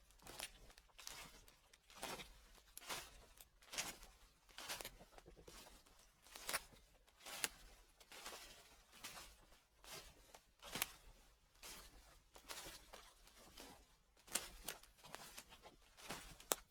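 Footsteps crunching through dry fallen leaves at a slow, even pace of about one step a second, each step a short crisp crackle.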